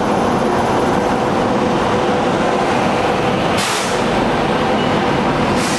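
Passenger train rolling slowly along a station platform as its coaches pass, a steady rumble and rattle. Two short hisses come about three and a half seconds in and again near the end.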